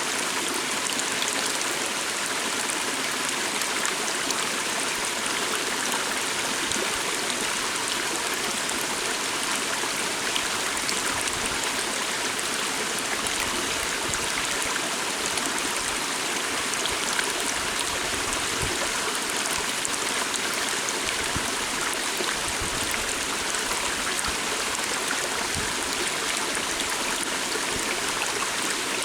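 Forest stream flowing steadily, a continuous rush of water.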